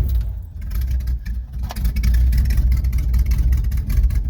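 1971 Chevy C10 pickup's engine running on the choke just after a cold start. It is uneven for the first second or so, then settles into steady running.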